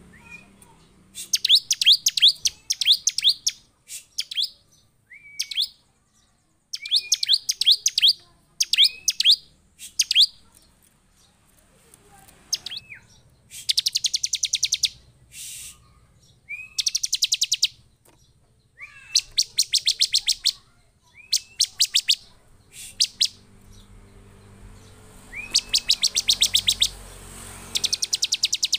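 Bar-winged prinia (ciblek) calling in excited, agitated bursts. Each burst is a rapid run of sharp high notes, often opened by a short rising note, repeated every second or two with brief pauses. This is the 'emotional', non-stop call that keepers play to provoke other ciblek into calling.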